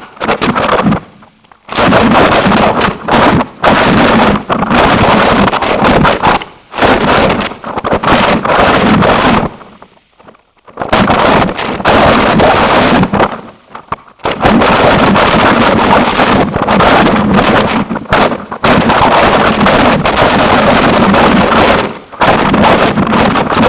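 Harsh noise music: a wall of loud, heavily distorted noise that fills the whole range from deep bass to hiss, breaking off abruptly into short gaps several times before slamming back in.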